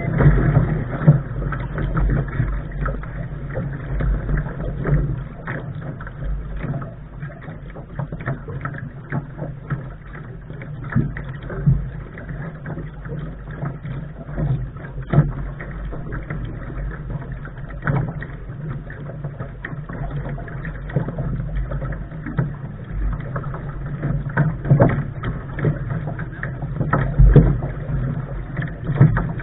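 Lark sailing dinghy under way, heard from the bow: a steady low rumble with irregular knocks and splashes of water against the hull.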